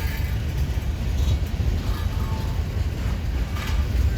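Norfolk Southern manifest freight train rolling past, a steady low rumble of freight cars on the rails.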